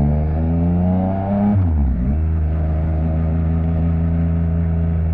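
Yamaha MT-09's three-cylinder engine through an Akrapovic exhaust, revs climbing steadily under throttle, then dropping sharply about a second and a half in as the throttle closes, and settling to a steady lower note.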